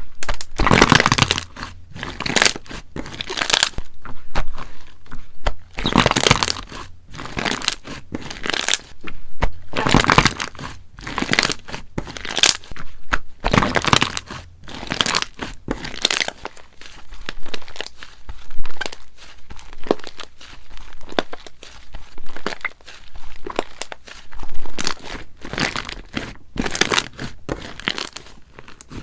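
Hands squeezing and stretching slime, making repeated crackling, popping squishes about once every second or two.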